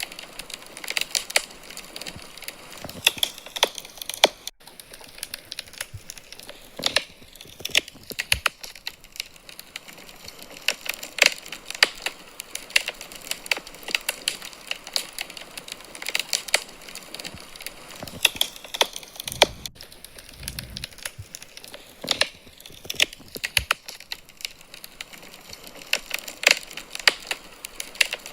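Wood fire in a fireplace crackling, with frequent irregular sharp pops and snaps.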